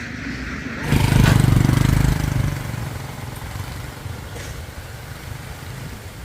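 An engine starts about a second in and runs loudly with a rapid firing beat for about a second and a half, then settles to a quieter steady running.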